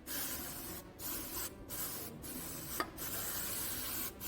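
Aerosol chain wax spraying onto a motorcycle drive chain in five short hissing bursts with brief pauses between them, and a small click partway through.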